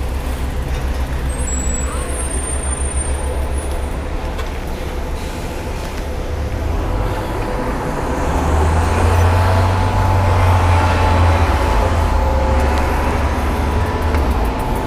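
Wind buffeting an unshielded action-camera microphone on a moving bicycle, a heavy low rumble that grows louder about halfway through, over city road traffic with large vehicles such as buses passing.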